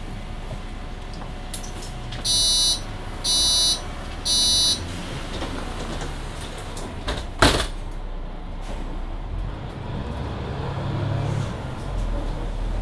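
Three short, high electronic beeps, typical of a city bus's door-closing warning on a Mercedes-Benz Citaro C2 Hybrid. A sharp knock follows a few seconds later, then the bus's engine and drivetrain come in with a low drone that rises as it pulls away.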